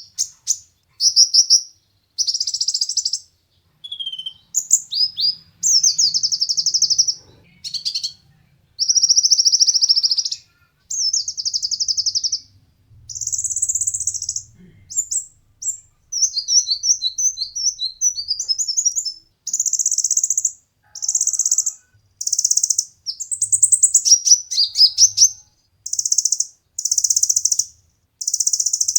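A kolibri ninja (Van Hasselt's sunbird) singing: a long run of high, fast trilled phrases, each about a second long with short gaps, and a burst of quick separate twittering notes around the middle.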